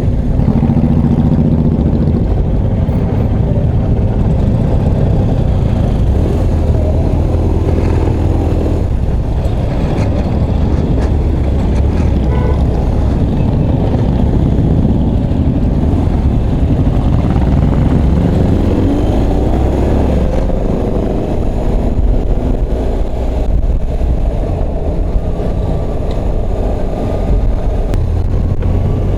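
Motorcycle engine running with steady loud road and wind rumble while riding. The engine pitch rises and falls with changes in throttle.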